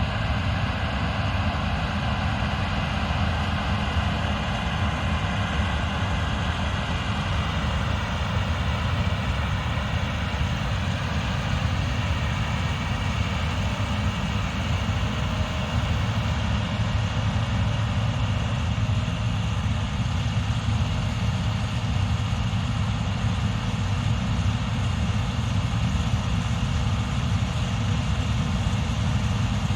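Combine harvester running steadily at work: a continuous engine drone with steady high whines from the machinery.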